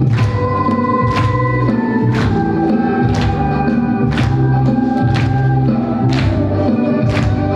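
Live ensemble music from a hymn or Christmas carol medley: sustained chords with a sharp struck accent about once a second.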